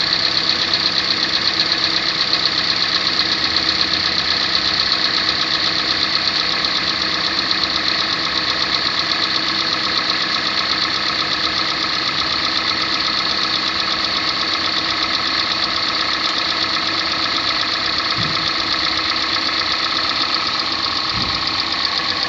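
Kia Sportage 3 (2014 facelift) engine running steadily with a fast, even knocking-ticking. At 13,000 km the owner is unsure whether this knock is normal.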